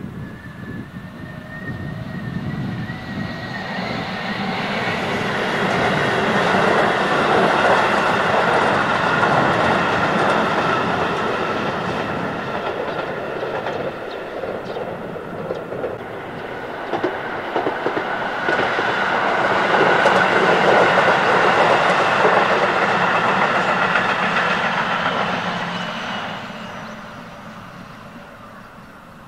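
Keihan electric train passing close by, its wheels clattering over the rail joints under a steady motor whine. The sound swells, eases off about halfway, swells again and dies away near the end.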